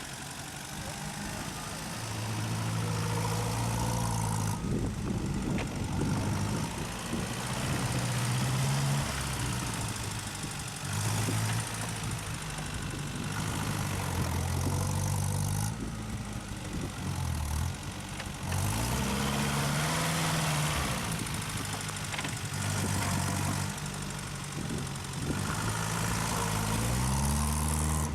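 UAZ off-road 4x4 engine revving hard and dropping back again and again, under load on a sand hill climb. The pitch rises sharply twice, once about two-thirds of the way in and again near the end.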